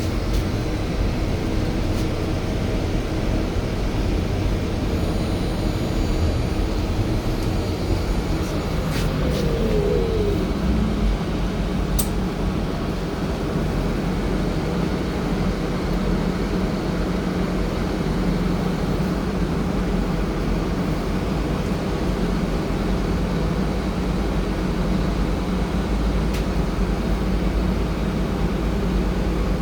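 Interior noise of a moving Belkommunmash BKM 32100D electric trolleybus: a steady low rumble and hum from the running gear and drive. A short falling whine comes about nine seconds in, and a few light clicks follow shortly after.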